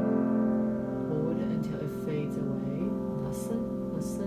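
A soft piano chord, struck just before, ringing on and slowly fading away.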